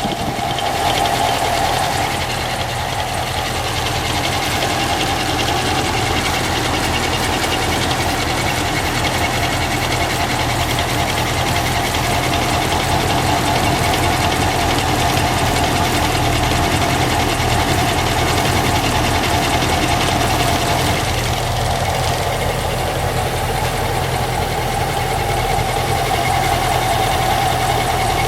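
An engine running steadily, with a fast, even ticking and a steady mid-pitched tone over its note.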